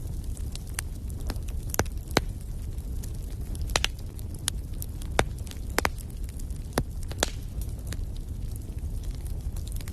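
Wood fire crackling and popping, sharp irregular snaps over a steady low rumble of the flames.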